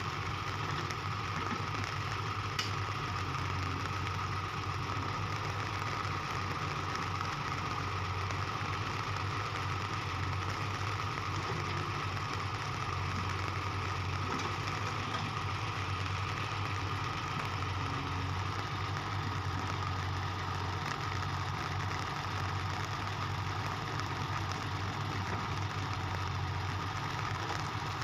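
Diesel engine idling steadily at an even pitch, with no revving.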